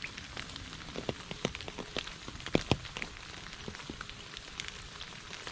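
Rain falling, with a steady hiss and many sharp, irregular drops striking a surface close by.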